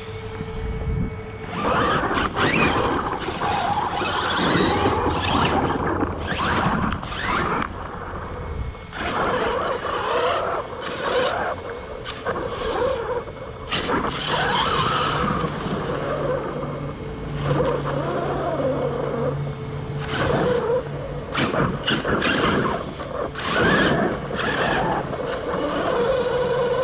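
ARRMA Talion 6S RC car being driven hard: its brushless motor whines up and down in pitch with repeated bursts of throttle, and its tires skid and scrabble over loose dirt and gravel.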